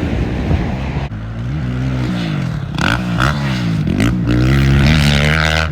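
Motocross dirt bike engines revving on the track, the engine pitch climbing and dropping again and again as the throttle is worked and gears change, loudest near the end.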